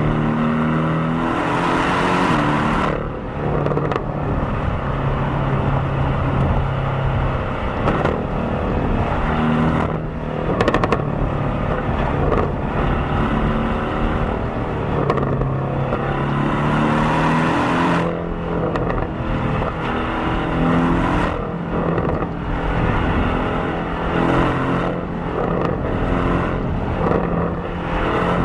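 Porsche 718 Cayman's turbocharged 2.0-litre flat-four on its stock exhaust, driving under load. The engine note climbs and then drops back several times, as at upshifts, with a brighter rushing sound during the hardest pulls near the start and about two-thirds of the way through.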